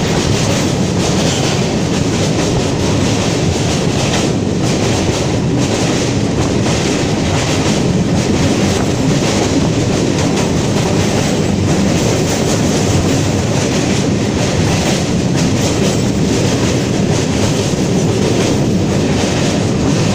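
Express passenger train running over a river bridge, heard from inside a coach: a steady, loud rumble with the clatter of the wheels on the rails.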